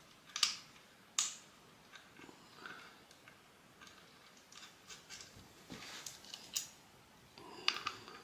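Scattered sharp clicks and light knocks of small metal parts, such as the caliper bolts, being handled and set down, the loudest about half a second and a second in, with more near the end.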